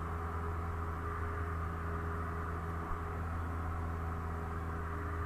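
Cessna 172 engine and propeller droning steadily in flight, a constant low hum with an even rushing noise over it.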